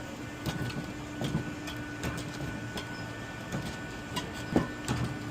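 Pen scratching on paper as a signature is written, in short irregular strokes with a few light clicks, over a steady machine hum.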